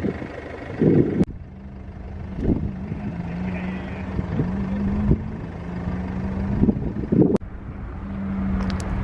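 A car engine running with a steady low drone, with a few thumps and knocks. The sound changes abruptly about a second in and again near seven seconds.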